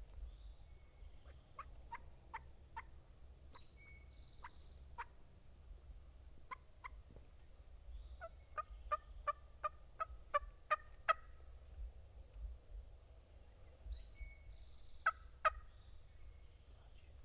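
Turkey yelping: short, evenly spaced call notes in small groups, with a run of about eight quickening notes in the middle and two more near the end. Faint songbird chirps are in the background.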